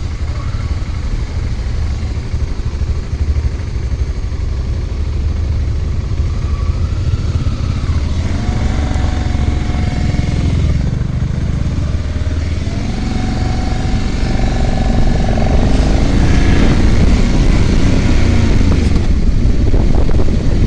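Motorcycle engine running steadily while riding. In the second half a further engine tone rises and falls in pitch, and the sound grows somewhat louder toward the end.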